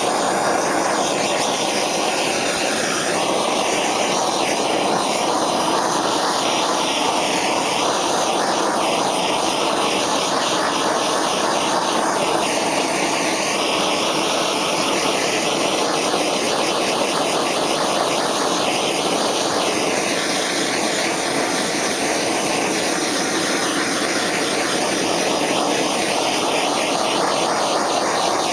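Propane torch flame burning with a steady rushing noise, its tone shifting slowly every few seconds as the torch is swept back and forth over faded plastic to heat it back to black.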